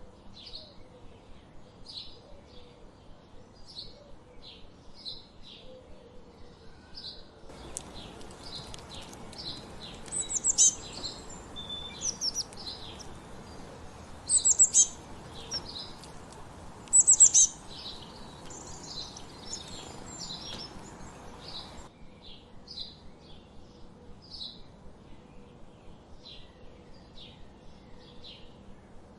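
Wild songbirds: one bird repeats a short chirp about twice a second throughout. In the middle, a hissier stretch begins abruptly, with louder, higher-pitched song phrases, the loudest three of them a few seconds apart; it cuts off abruptly a few seconds before the end.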